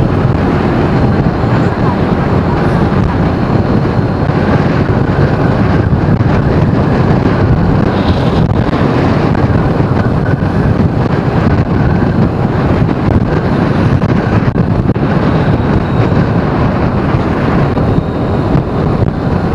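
Steady road noise of a moving vehicle, with wind rushing over the microphone.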